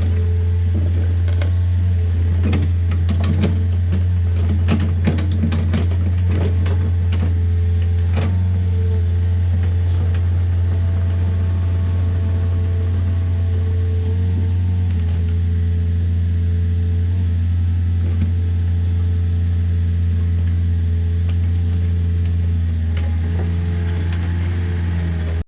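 Diesel engine of earthmoving equipment running steadily with a strong low hum. Sharp metallic clanks and knocks come repeatedly over the first eight seconds or so, then the engine runs on alone.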